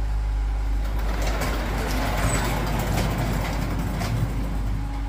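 A Jeep Grand Cherokee running at idle with a steady low hum. From about one second in to about four seconds in, a louder rushing noise with a few sharp clicks comes in over it.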